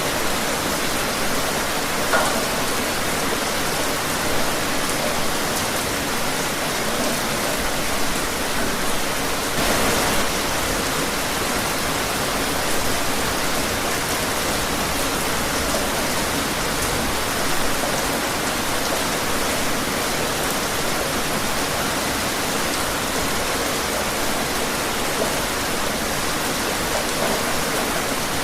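Steady rain falling outdoors: an even hiss of rainfall with occasional louder drops.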